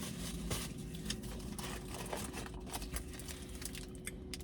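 Irregular small clicks and crackles from food and its wrapping being handled close to the microphone, over a faint steady hum.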